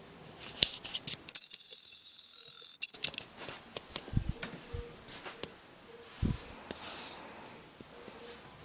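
Scattered sharp clicks and a few low knocks from handling a laptop at start-up, over a faint steady hum.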